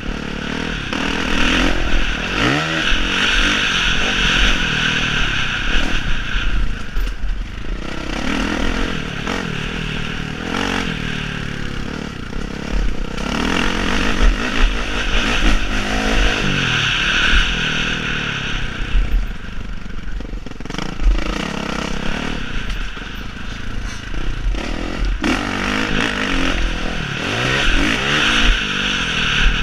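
Motocross motorcycle engines revving up and down again and again, the pitch rising and falling with each gear change, growing louder in waves about every twelve seconds.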